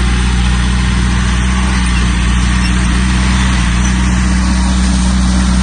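Diesel engine of a Komatsu bulldozer running at a steady speed, a loud, even low drone with no revving.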